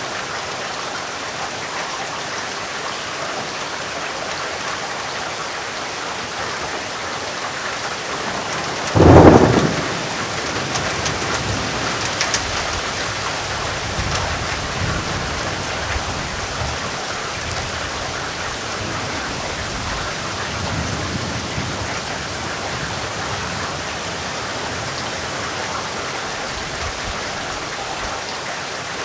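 Steady rain with a sudden loud thunderclap about nine seconds in, followed by low thunder rumbling for several seconds before it settles back to rain alone.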